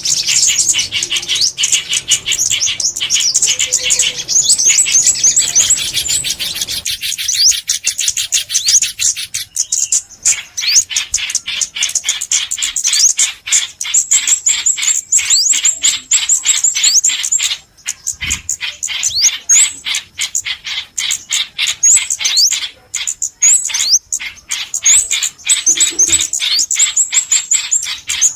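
Small songbirds chirping and twittering continuously: rapid high-pitched calls, several a second, mixed with quick rising whistled notes.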